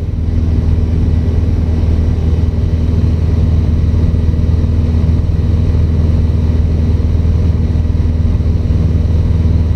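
Cessna 150's Continental O-200 four-cylinder engine and propeller droning steadily in level cruise, heard from inside the cabin.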